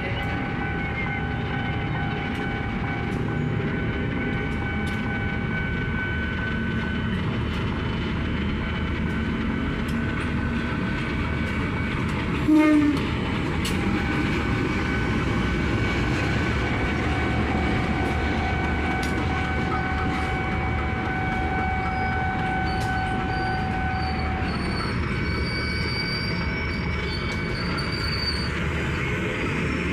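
KA Serayu passenger train arriving and rolling slowly through the station, with a steady rumble under long, drawn-out high squeals from the wheels on the rails. There is one brief loud knock about halfway through.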